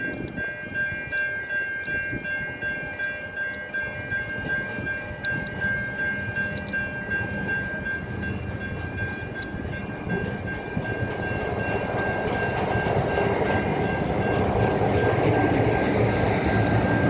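A train running on rails, growing louder over the last few seconds as it comes closer. A steady high-pitched tone sounds throughout.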